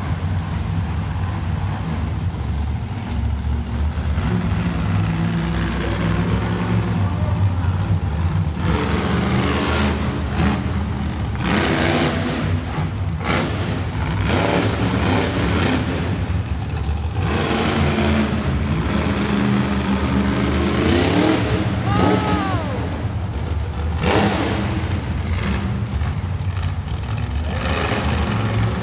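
Monster truck's supercharged V8 engine at full throttle, revving hard in repeated surges with brief drops between them as the truck runs through its freestyle.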